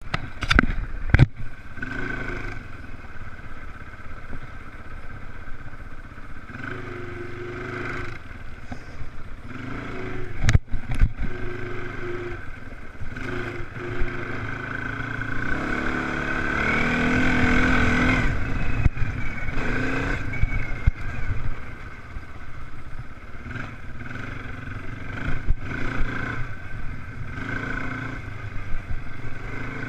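Motocross race engines revving and changing pitch as the machines go round the track. One grows louder about halfway through, as if passing close, with a few sharp knocks near the start.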